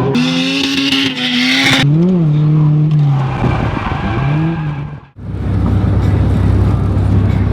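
Drift car engines revving up and down with tyres squealing, the squeal loudest in the first two seconds. About five seconds in the sound breaks off sharply and gives way to a steady low engine drone.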